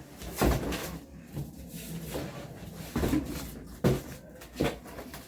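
Cardboard being cut and handled with a small serrated knife: rustling and scraping, with several sharp knocks and scrapes spread through.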